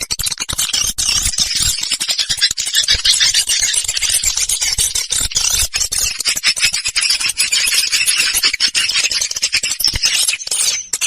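Swiftlet call recording of the kind played to lure swiftlets: a dense, continuous high-pitched twittering of rapid chirps and clicks, dipping briefly near the end.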